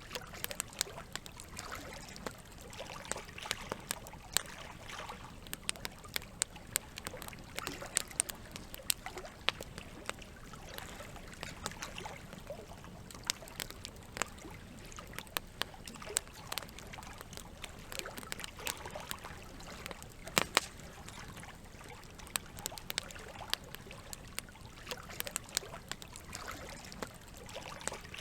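Campfire crackling, with frequent sharp pops and snaps scattered irregularly throughout, one of the loudest about twenty seconds in, over a steady trickle of running water.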